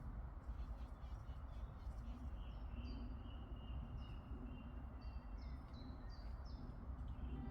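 A bird giving a series of short, high, falling chirps, starting about a third of the way in, over a steady outdoor background of low rumble and hiss.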